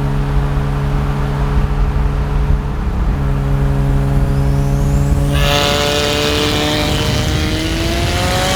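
Turbocharged car engine running at a steady engine speed, then accelerating from about five seconds in, its pitch rising steadily until near the end.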